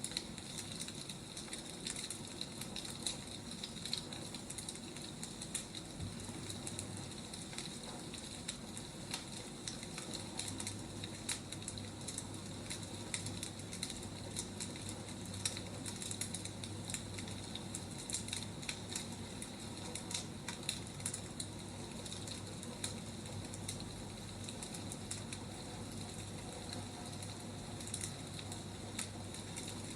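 Wood fire burning, crackling with frequent small pops and snaps over a steady hiss.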